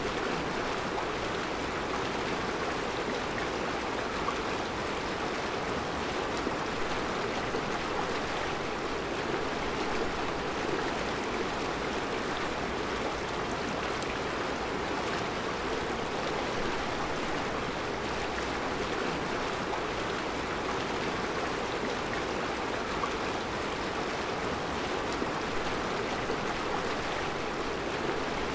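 Mountain river flowing over round rocks in a rocky bed: a steady rushing and babbling of water.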